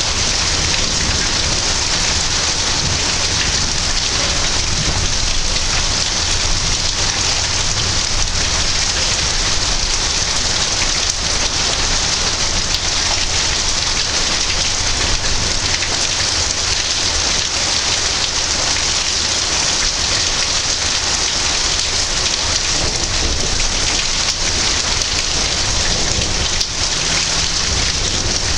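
Heavy rain falling steadily in a thunderstorm, an even, dense hiss of drops.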